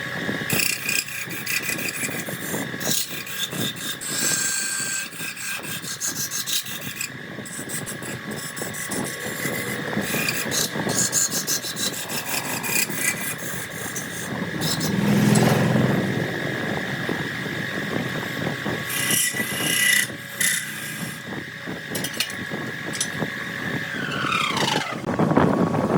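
Wood lathe running with a turning tool scraping and cutting into a spinning jackfruit log, a steady motor whine under rough rasping cuts. Near the end the motor's pitch drops, then rises again as the lathe changes speed.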